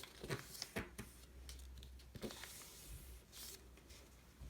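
A sheet of paper being handled and creased by hand: faint rustles and a few short crinkles and taps.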